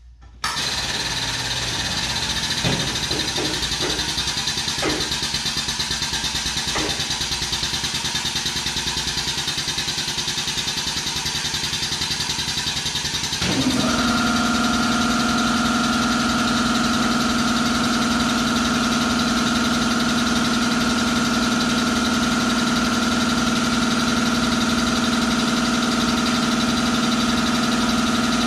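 Air compressor for a pneumatic motorcycle lift starting abruptly and running with a steady, even rhythm; about halfway through it turns louder, with a steady hum.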